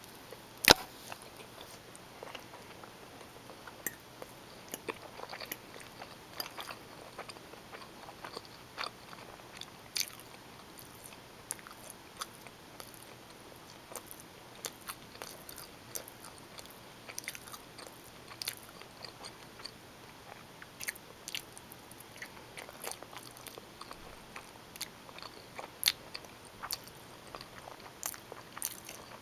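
Close-miked chewing of bowtie pasta in tomato sauce with Italian sausage: irregular wet mouth clicks and smacks, with a sharp click just under a second in.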